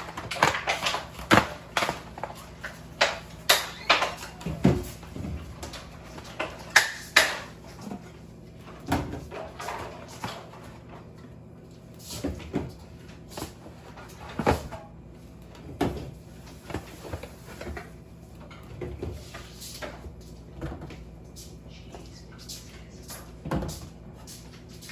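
Irregular knocks, clicks and clatters of groceries and containers being handled, set down and put away in a refrigerator, busiest in the first eight seconds and sparser after.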